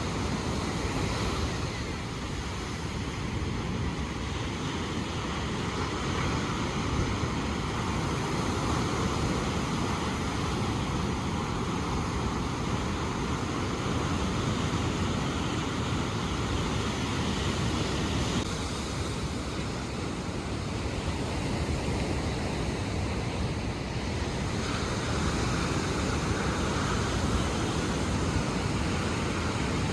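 Ocean surf: a continuous rush of breaking waves whose loudness slowly swells and eases, with wind rumbling on the microphone.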